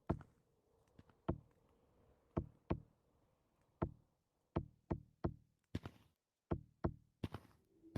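An uneven series of about fifteen sharp knocks, some coming in quick pairs, over a faint steady hum.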